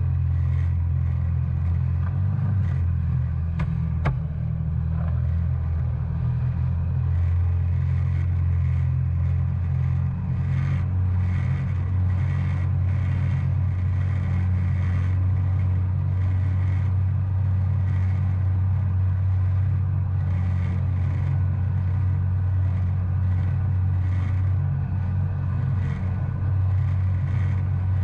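2019 Yamaha FX SVHO WaveRunner's supercharged four-stroke engine running steadily at cruising speed, with a faint regular rushing pulse about twice a second over the engine drone.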